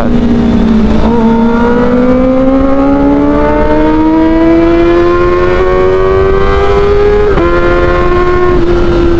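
Kawasaki ZX-25R 250 cc inline-four with a straight-through Arrow Pro Race exhaust and the catalytic converter removed, pulling hard on the road. Its note climbs slowly through one gear, with brief gear-change breaks about a second in and again about seven seconds in.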